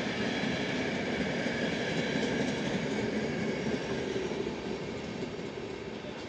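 Passenger train of coaches rolling past on the station tracks, its wheels running over the rails and points, growing fainter near the end as it draws away.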